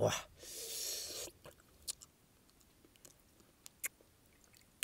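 Close-up chewing of crisp lettuce and spring roll: a crunchy noisy stretch in the first second or so, then a few soft, separate mouth clicks.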